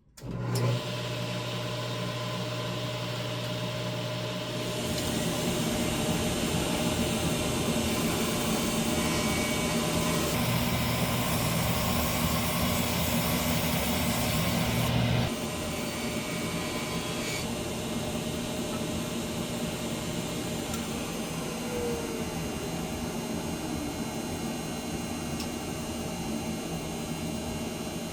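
A 1950s Craftsman 100 table saw and its dust collector running together while MDF is cut. The machines start suddenly at the beginning with a steady low hum. The noise grows louder about five seconds in and louder still for about five seconds from around ten seconds in, then drops back about fifteen seconds in to a steady run that carries on.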